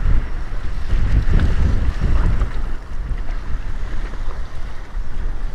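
Strong wind buffeting the microphone in a gusty, uneven low rumble, over choppy waves sloshing in rough open water.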